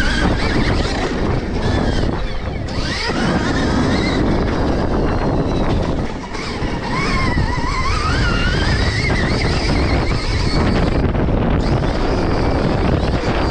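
Stark Varg electric motocross bike ridden around a dirt track: the motor's whine rises and falls in pitch with the throttle, under heavy wind noise on the microphone.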